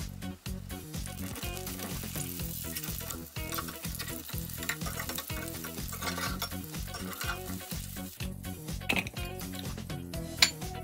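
Hamburger patties frying in oil in a cast-iron skillet, sizzling steadily, under background music with a steady beat; a single sharp click near the end.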